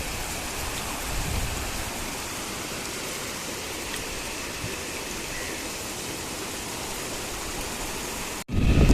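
Steady rush of falling water at a waterfall, an even hiss. Near the end it cuts off abruptly and a much louder low rumble takes over.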